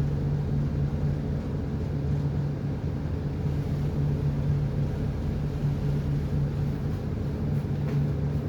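Ship's diesel engine running steadily, a low, even drone.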